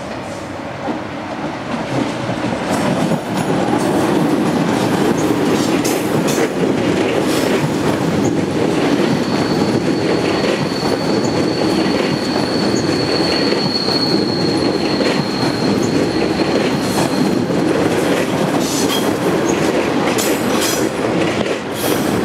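Double-deck TGV trainset running past on curving track: a steady rumble of wheels on rail that swells over the first few seconds. A thin, high wheel squeal holds for several seconds in the middle, and a quick run of clicks over rail joints comes near the end.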